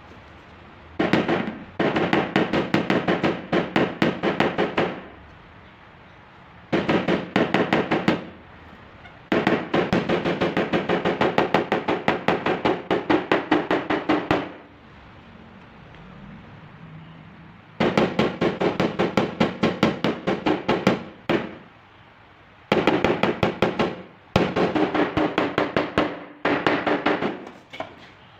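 Rapid light hammer taps on a car's sheet-metal body panel, about six a second with a ringing metallic tone, in six runs of one to five seconds with short pauses between: tapping down the metal along a body line during paintless dent repair.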